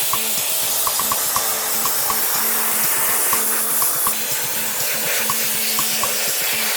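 Steady spraying hiss, most likely a dry-ice blasting nozzle cleaning the car's underside or engine bay, over background music with a regular beat.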